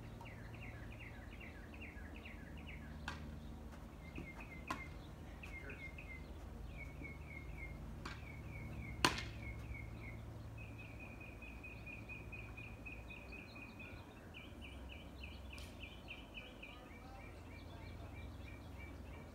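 A bird calling in rapid runs of short, repeated chirps, going on throughout, with a few sharp impacts of a ball being struck in the doubles game. The loudest hit comes about nine seconds in.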